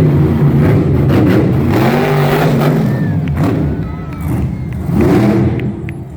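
Monster truck engine revving hard, its pitch climbing and falling several times as the throttle is worked, then cutting off suddenly.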